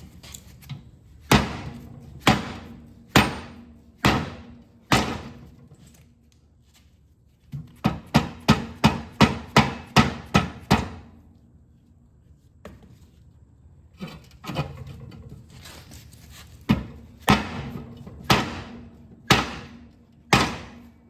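A 4-pound dead-blow hammer striking a John Deere 318 mower deck spindle hub in a vise, driving out the tight-fitting shaft and bearings without a press. Five blows about a second apart, a quick run of about ten faster blows, then several more spaced blows near the end.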